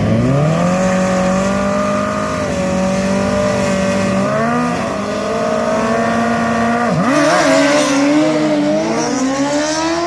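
Two drag-racing vehicles launching at full throttle and accelerating down a drag strip. The engine pitch climbs at the launch and holds, drops sharply about seven seconds in, then climbs again toward the end.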